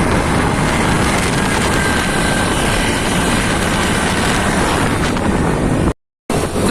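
Wind rushing over the microphone and road noise from a moving motorcycle, a loud steady rush with a faint steady whine in it. It cuts off abruptly for a moment near the end.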